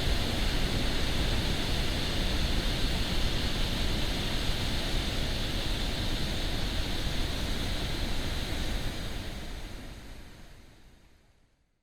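Waterfall: steady rushing of falling water, fading out over the last few seconds.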